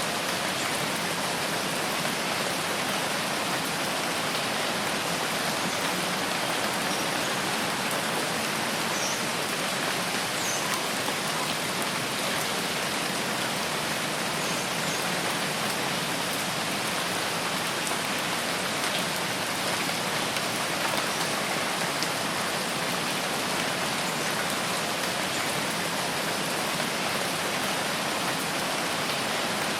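Steady rain falling, an even unbroken hiss of drops that keeps up without change.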